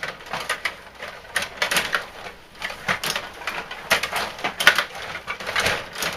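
Ice hockey play: an irregular run of sharp clicks and scrapes from sticks, skates and puck on the ice, several a second.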